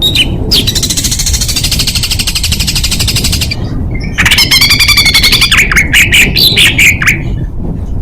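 Songbird singing a harsh, very fast rattling trill for about three seconds, then, after a short pause, loud whistled notes broken by sharp downward-sweeping calls: the dense rapid-fire 'tembakan' phrases used to train competition songbirds.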